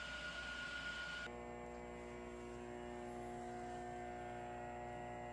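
Steady electrical hum of a transformer in an apartment building's substation room, many steady tones over a low drone. It cuts in abruptly about a second in, replacing a hiss with a thin whine.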